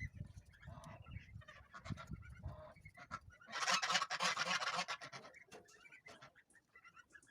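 Farmyard poultry calling in short scattered calls. About three and a half seconds in there is a loud hissing noise lasting about a second and a half.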